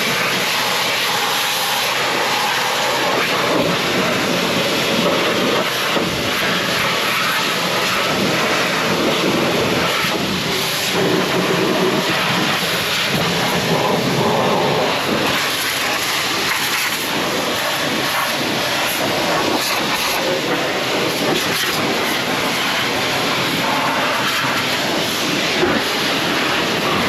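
Water spray washing a truck: a steady, loud rushing hiss.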